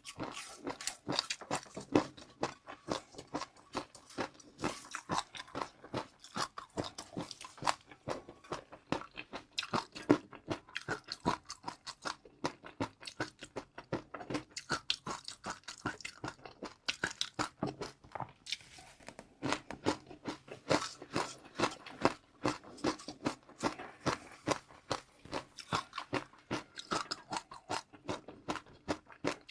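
Close-miked chewing of crunchy food: a quick, irregular run of crisp crunches with wetter chewing between them.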